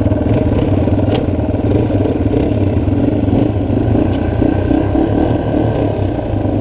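Dirt bike engine running at a steady pace while being ridden, with a short click about a second in.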